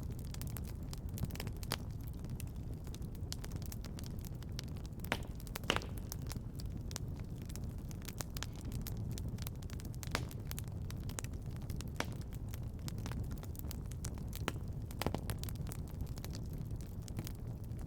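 Wood fire crackling in a fireplace: irregular small pops and snaps, a few sharper ones, over a steady low rumble.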